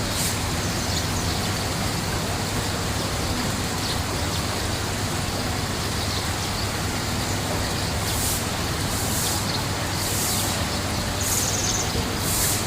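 Steady rush of water running into a koi pond, with a low hum beneath. Short high chirps from birds break in about five times in the second half.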